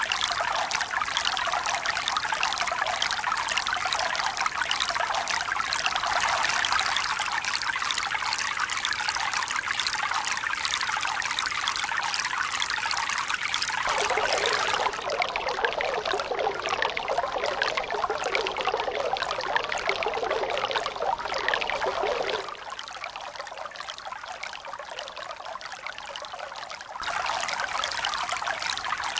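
Steady flowing water, an even rushing and trickling hiss with no rhythm. Its tone changes abruptly about halfway through, goes quieter and thinner for a few seconds after that, then comes back at full level near the end.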